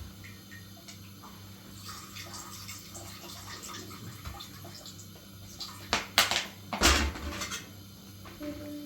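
Water running with a low steady hum beneath, and a few sharp clatters of hard objects about six and seven seconds in.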